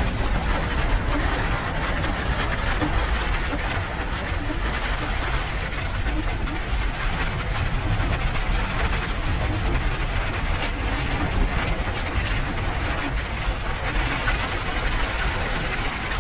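Steady rain: an even hiss with a strong low rumble underneath.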